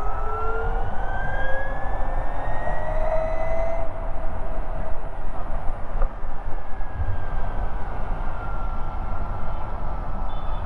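Ather 450X electric scooter's motor whining, rising in pitch over the first four seconds as it speeds up, then falling slowly in the second half as it eases off, over a steady low rumble of wind and road.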